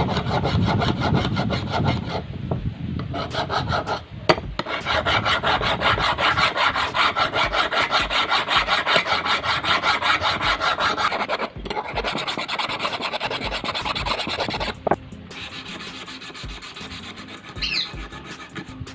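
Rapid back-and-forth abrasive rubbing on a rusted scissors, scrubbing off rust. There is a sharp knock about four seconds in and another near fifteen seconds, after which the rubbing goes on more faintly.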